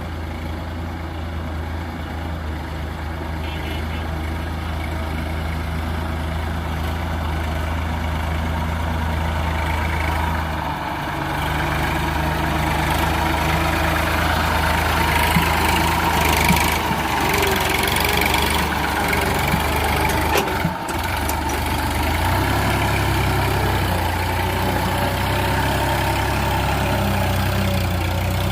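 Heavy vehicle engine running steadily, its note shifting up and getting louder about eleven seconds in, with one sharp knock about twenty seconds in.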